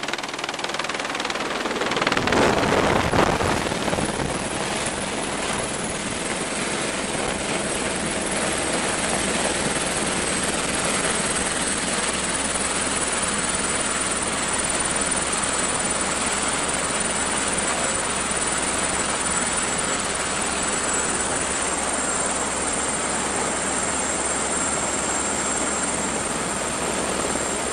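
Helicopter close by, landing next to the group: a loud surge of rotor noise about two to four seconds in, then the helicopter running steadily with a high turbine whine over a constant rush of rotor noise.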